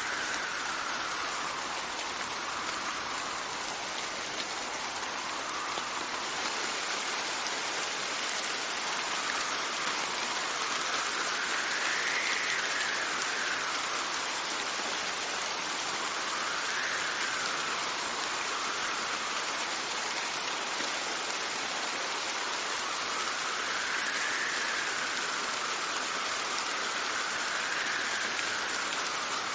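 Steady rain falling, with wind whistling over it in slow gusts that rise and fall in pitch every several seconds.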